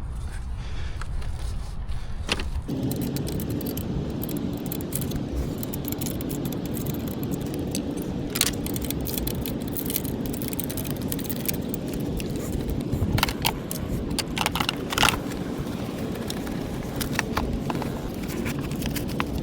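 Metal clinking and rattling, like hand tools and turbo hardware being handled, with a few sharp clinks, over a steady low rumble that grows louder about two and a half seconds in.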